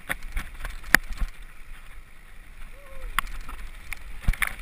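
Mountain bike rattling and knocking as it rides down a rough, rocky trail, with sharp clacks from the frame, chain and wheels over rocks and a low rumble of tyres and wind. A brief squeak comes about three seconds in.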